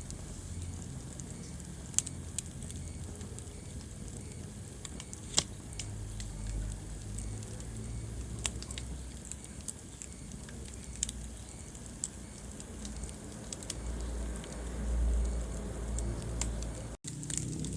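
Wood fire burning in a fireplace, crackling with scattered sharp pops over the low rumble of the flames; the loudest pops come about 2 and 5 seconds in. The sound cuts out for an instant near the end.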